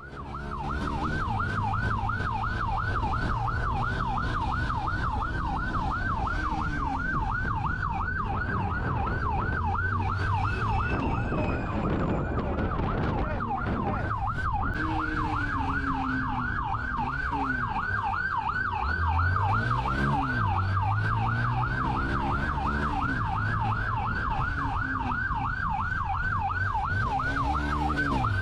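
Police car siren sounding a fast yelp, its pitch sweeping up and down about five times a second, over the pursuing vehicle's engine rising and falling in pitch as it speeds up and slows.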